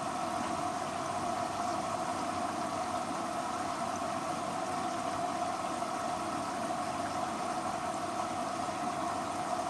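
Hoover H-Wash & Dry 500 washer dryer running its pre-wash, a steady even machine hum with a constant mid-pitched tone.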